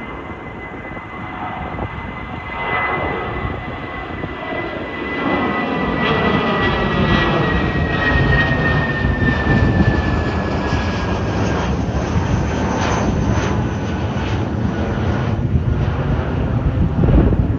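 Jet airliner's engines passing close by, with a high whine that slowly falls in pitch as the engine noise builds and grows louder.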